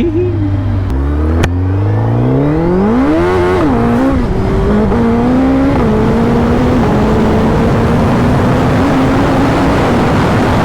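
Superbike's inline-four engine accelerating hard: its pitch climbs steeply, drops back at each upshift, then holds steady at speed under a loud rush of wind.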